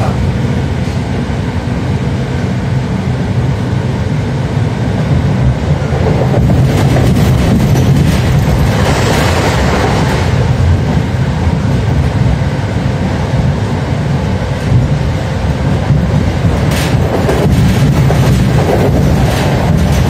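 Interior running noise of an EN57 electric multiple unit: a steady low rumble of wheels and traction motors, with a few sharp clicks as the wheels cross the track. It grows louder about six seconds in as the train gathers speed.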